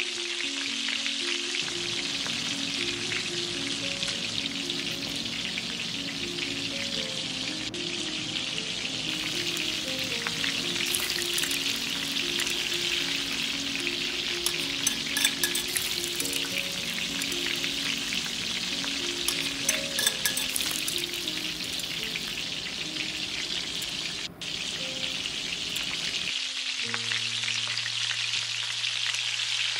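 Food sizzling and frying in hot oil in a kadai, with bursts of crackling stirring noise in the middle, over soft background music.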